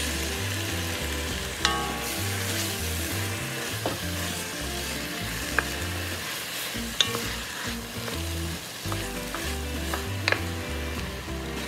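Chicken wings sizzling as they fry with garlic, ginger and onion in an enamelled cast-iron pot. A wooden spoon stirs them and knocks sharply against the pot four times.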